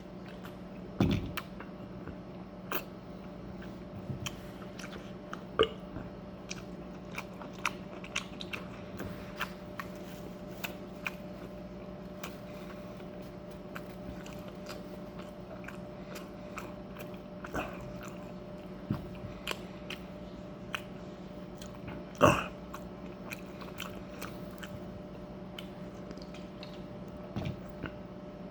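Close-up mouth sounds of a person chewing a tough mouthful, which the eater calls hard to chew: scattered wet clicks and smacks at an irregular pace, a few louder ones about a second in, around a fifth of the way through and about three quarters of the way through.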